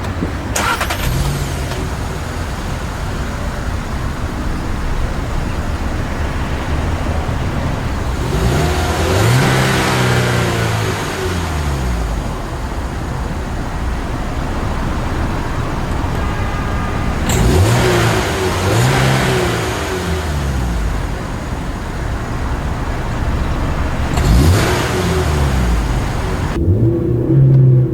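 1.6-litre four-cylinder engine of a 2016 Skoda Octavia (A7), idling and then revved several times. Each rev rises and falls back to idle; the revs are capped by a limiter set at 4000 rpm.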